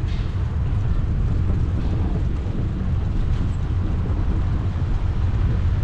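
Steady low rumble of wind buffeting the microphone of a moving bicycle.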